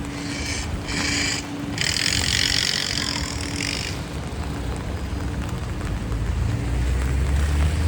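City street traffic in the rain: vehicles passing on wet pavement. A loud hiss starts about half a second in, breaks twice and stops about four seconds in, and a low engine rumble builds near the end.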